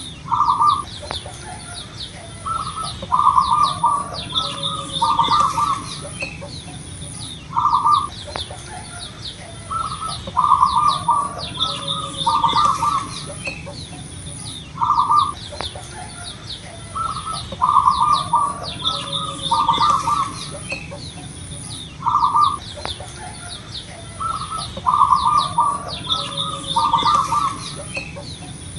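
Zebra dove (perkutut) cooing over and over, a short rolling phrase of several quick notes about every two to three seconds. Other small birds chirp faintly and insects buzz high in the background.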